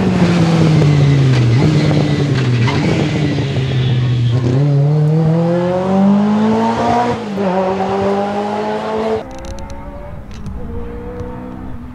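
Ferrari 308 GTB rally car's 2.9-litre 90° V8, close by: the engine note drops as the car slows, then rises hard as it accelerates away, with two upshifts. About nine seconds in, the sound switches to a second 308 V8, quieter and farther off, running at a steady pitch.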